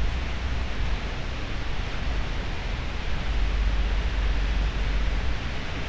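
Steady rushing noise of Pacific surf at the beach, with wind buffeting the microphone as a low, uneven rumble.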